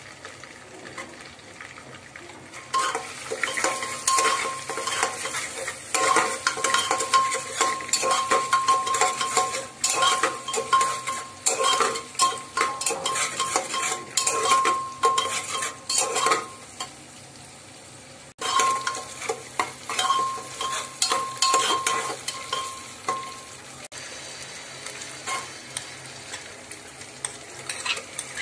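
Whole spices and paste sizzling in hot ghee in an aluminium pressure cooker, stirred with rapid scraping strokes of a spoon against the metal pot, which rings faintly with each scrape. The stirring comes in two long runs, about three seconds in and again a little past the middle, and the sizzle carries on quieter once it stops.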